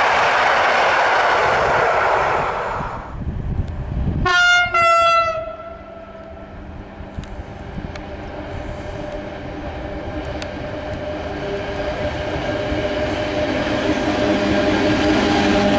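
An EN57AKŚ electric multiple unit passes with a loud rushing rumble that dies away about three seconds in. About four seconds in there is a short horn blast. Then a PKP Cargo ET22 electric locomotive hauling hopper wagons approaches, its steady hum and wheel noise growing louder toward the end.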